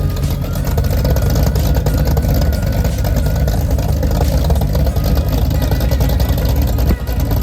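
A loud car engine running steadily with a low exhaust note.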